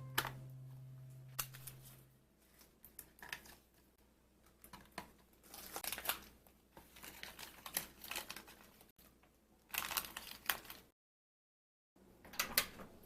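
Irregular crinkling and rustling of packaging being handled, in short bursts, as groceries are unpacked and sorted.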